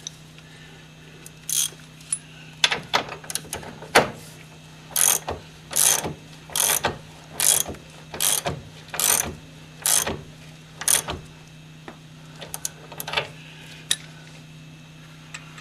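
Ratchet wrench clicking in repeated short strokes, about one a second, a few lighter ones near the end, as the eccentric cam bolt on a Mercedes 300D's front suspension is tightened into position.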